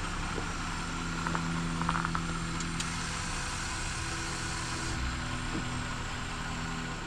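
2024 Jeep Gladiator's engine running steadily, a low even hum with road and wind noise.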